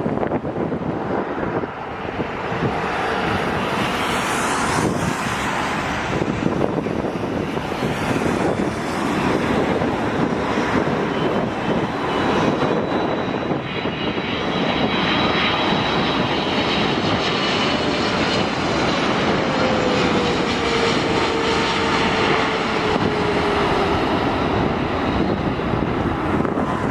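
Airliner's jet engines running loud and steady as the aircraft passes. A high whine comes in around the middle, and a tone falls slowly in pitch in the second half.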